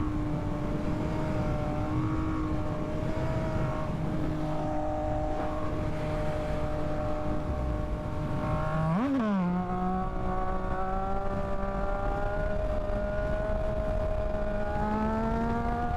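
Yamaha MT-09 inline three-cylinder engine pulling steadily under way, with wind rushing over the helmet mic. About nine seconds in the revs flare briefly and drop as it shifts up a gear, then climb slowly again.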